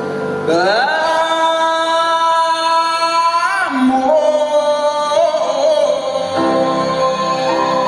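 Live band music with a singer holding long wordless notes: one slides up about half a second in and is held for about three seconds, then a lower note is held with a brief wobble.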